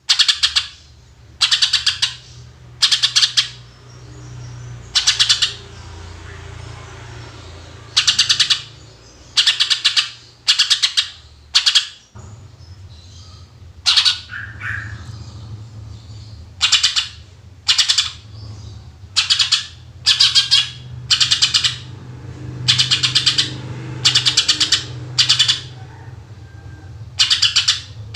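Green leafbird (cucak ijo) calling in a run of short, rapid-fire bursts of high, rattling notes about a second apart, the 'tembakan' (shots) that keepers prize in a bird in full song. A faint low hum runs underneath.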